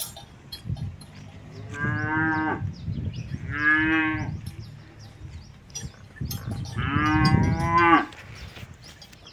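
Simmental-Brahman cross calf mooing three times, the last call the longest at about a second and a half.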